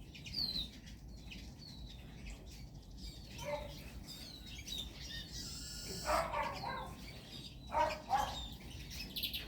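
Small songbirds chirping, with short high calls scattered throughout and a few louder brief sounds about two thirds of the way through and near the end.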